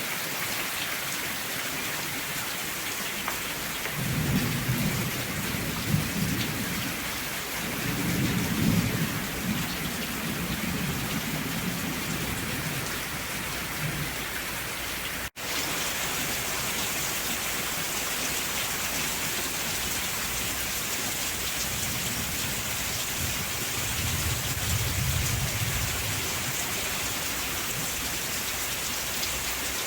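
Steady rain with low rolls of thunder, three slow rumbles that swell and fade. The sound cuts out for an instant about halfway through.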